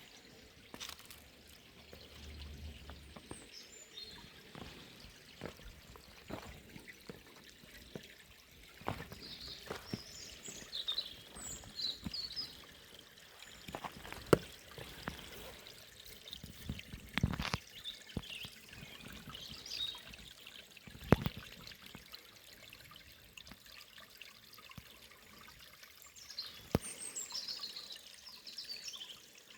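Running river water trickling and splashing in irregular spurts, with small birds chirping in short bursts several times over it.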